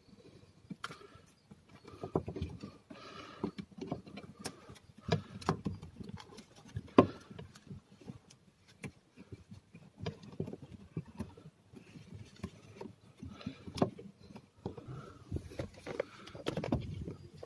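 Irregular clicks, taps and short rustles of hands handling and fitting parts around the car's pipes, with one sharper knock about seven seconds in. No engine is running.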